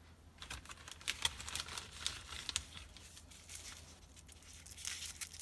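Packaging crinkling and tearing by hand as a wrapped LEGO minifigure is unwrapped, a run of irregular crackles that starts about half a second in.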